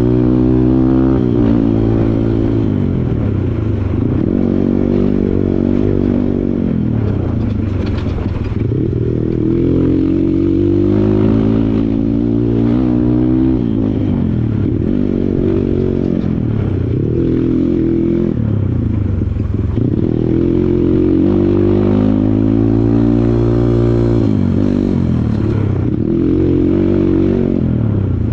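Kawasaki KLX140 dirt bike's single-cylinder four-stroke engine being ridden, its revs rising and falling over and over as the throttle is opened and closed, with a few knocks and rattles.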